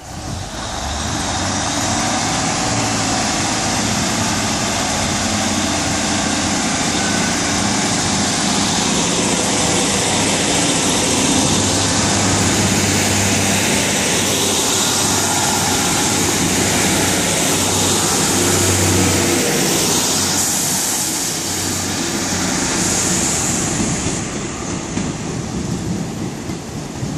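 A Northern Rail Class 150 Sprinter diesel multiple unit runs past close by, its diesel engines humming over the rumble of its wheels on the rails. It moves off round the curve, and the sound fades near the end.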